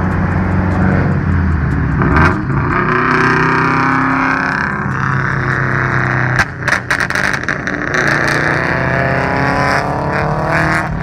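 Subaru WRX turbocharged flat-four engine under hard acceleration: the pitch climbs through a gear, drops at a shift with a few pops and clicks about six and a half seconds in, then climbs again.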